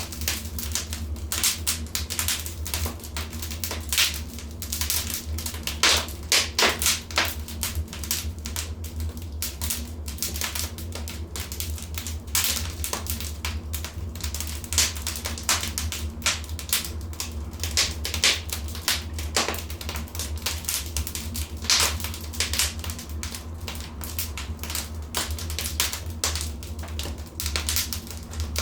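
Wood fire burning in a fireplace: irregular crackling and sharp pops over a steady low rumble, with a cluster of louder pops a few seconds in and another past the middle.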